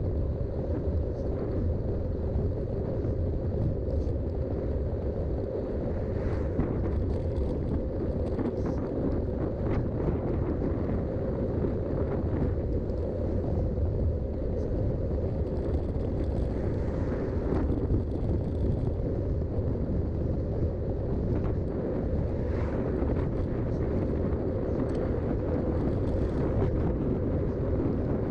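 Riding noise of a Specialized Rockhopper 29" mountain bike on Schwalbe tyres, picked up by a GoPro: a steady low rumble of wind on the microphone and tyres rolling, with a few faint rattles or clicks.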